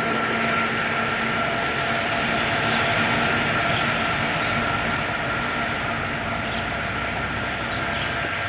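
Train running: a steady rumble with a steady whine over it, slowly growing quieter.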